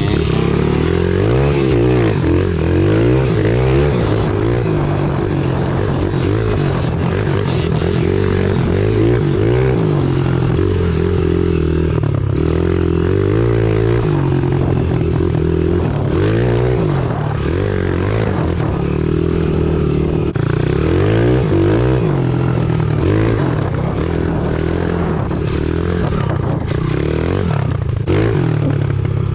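Pit bike's small single-cylinder engine being ridden hard, the revs rising and falling every second or two with the throttle and gear changes.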